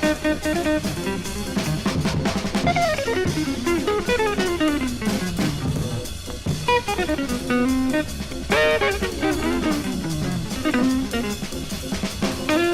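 Soul-jazz recording: electric jazz guitar playing quick single-note runs that climb and fall, over a drum kit.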